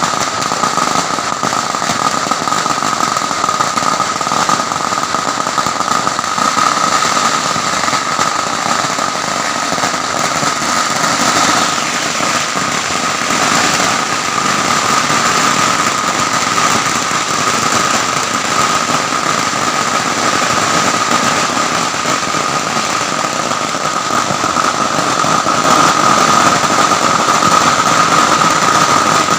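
Firecrackers going off in a long, unbroken run of rapid crackling pops, with a steady high tone running through it.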